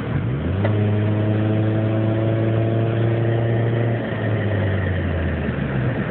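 A 2003 Chevrolet Cavalier's 2.2 L Ecotec four-cylinder pulling the car along, heard from inside the cabin, with the automatic transmission in limp mode and stuck in second gear. The engine note climbs quickly about half a second in, holds steady, thins out about four seconds in and drops away near the end.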